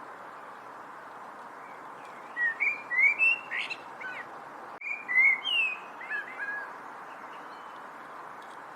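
A songbird singing two short phrases of quick, gliding whistled notes a second apart, over a steady background hiss.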